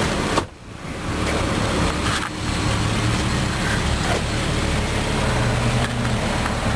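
2004 Jeep Grand Cherokee's engine idling steadily.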